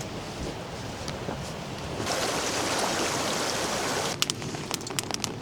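Steady rushing water, louder for a couple of seconds mid-way, then a quick run of sharp clicks and ticks near the end.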